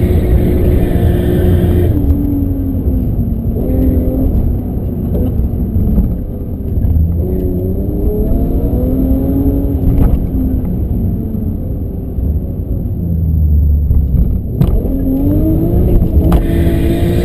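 BMW M5 E34's straight-six engine heard from inside the cabin, revving up and falling back several times as the car is driven hard. A few sharp knocks come through, about ten seconds in and again near the end.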